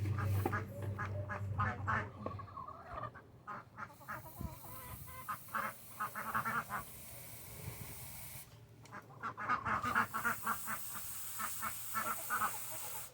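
Domestic ducks quacking in rapid bursts of short calls, with brief lulls between the bursts.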